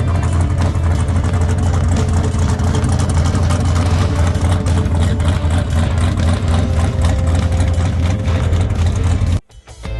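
Car engine running with a steady low drone, cutting off abruptly near the end.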